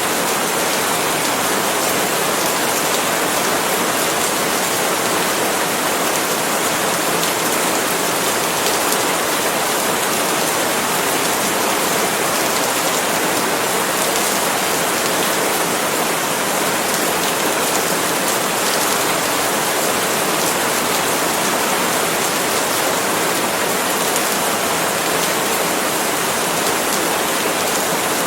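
Steady rain falling on palm leaves: an even, unbroken hiss with no pauses.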